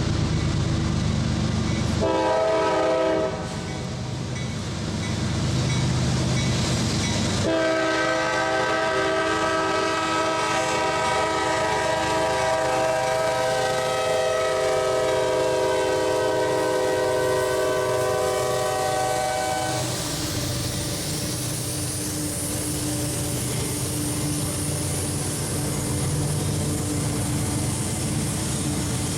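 Freight diesel locomotive's air horn sounding a chord: a short blast about two seconds in, then one long blast lasting about twelve seconds, over the engine rumble. After the horn stops, the locomotive and the train's wheels on the rails keep running past.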